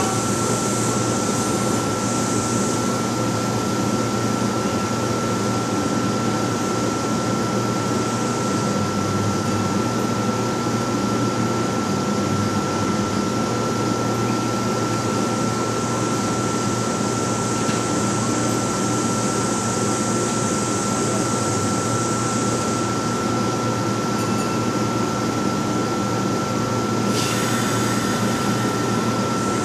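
A Kintetsu 16000-series limited express standing at the platform, its rooftop air conditioners and auxiliary equipment humming steadily under a constant high whine. A hiss comes in near the end, shortly before the train pulls out.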